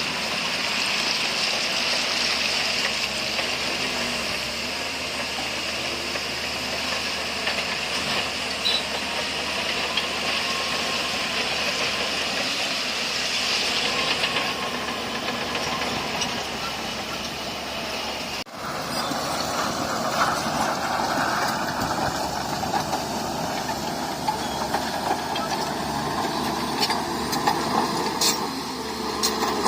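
Diesel heavy construction machinery running steadily with a hissing noise. The sound breaks off abruptly about two-thirds of the way through and resumes with a different character, and a few sharp clanks come near the end.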